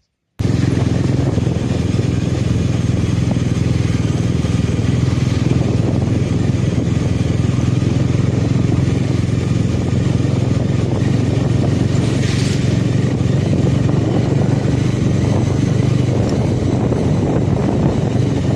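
Motorcycle engine running steadily while riding, holding an even pitch. It cuts in abruptly less than half a second in.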